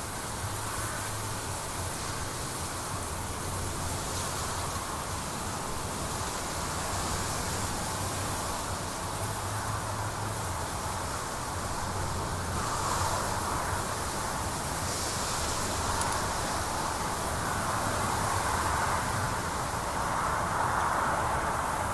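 Jet airliner engines rumbling at a distance, a steady noise with a low hum that swells gradually in the second half.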